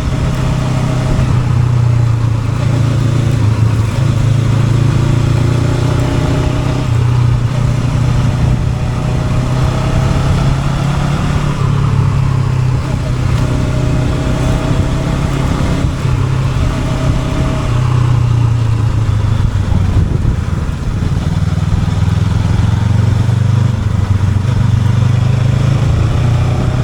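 Honda NX500 parallel-twin engine running under way, its note wavering up and down a little with throttle changes along the ride.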